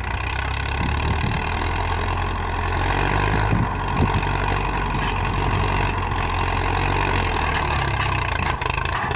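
Diesel tractor engine running steadily, a low drone that holds even throughout.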